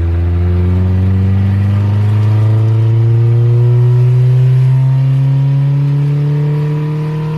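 Late-1990s Honda CR-V's four-cylinder engine pulling hard through one gear, its revs climbing steadily in a good wind-out.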